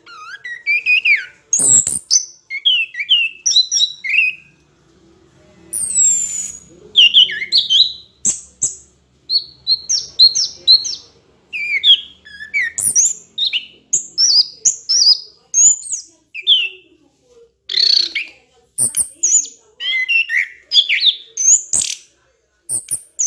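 Bird chirping and calling: a long string of short, quick notes of varied pitch, broken by a few sharp clicks.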